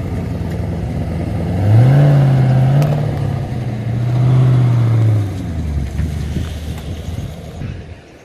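A car engine just after starting: it idles, is revved up about two seconds in and held at a higher steady speed for a few seconds, then drops back to a lower idle. The sound fades near the end.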